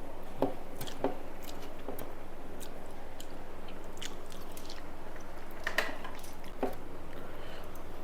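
A person chewing a mouthful of rice and fried vegetables close to the microphone, with scattered small wet clicks and a few sharper crunches. A steady low hum lies underneath.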